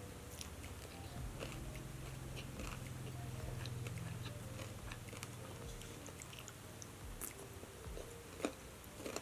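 A person eating close to the microphone: biting and chewing, with many short, crisp clicks and a sharper one near the end. A low, steady hum runs underneath.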